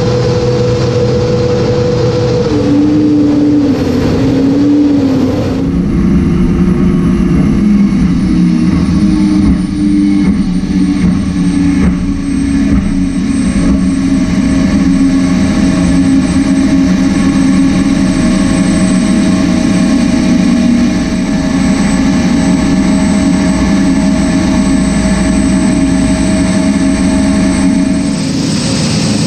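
Race jet boat's engine running hard at high revs, loud and continuous. Its pitch shifts a few seconds in, then holds steady over a rushing noise.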